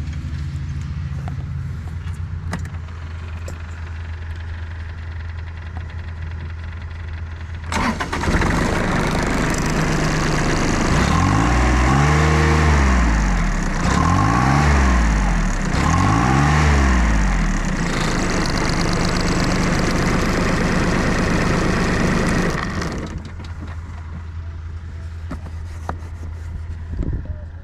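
Small compact tractor's diesel engine idling. About eight seconds in it is throttled up, swells up and down in pitch three times, holds at higher revs, and near the end drops back to idle.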